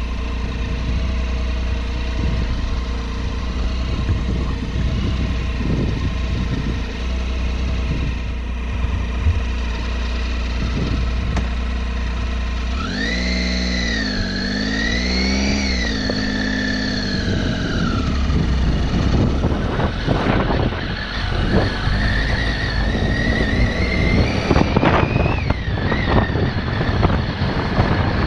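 Triumph Tiger XC motorcycle's three-cylinder engine running at low speed off-road. Its note swells and falls as the throttle is worked about halfway through, and climbs again near the end. Knocks and rattles from riding over rough, rocky ground come through in the second half.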